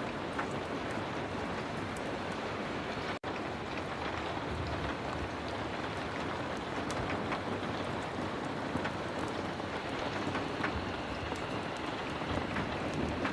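Heavy rain falling steadily, with scattered small sharp clicks through it; the sound drops out for an instant about three seconds in.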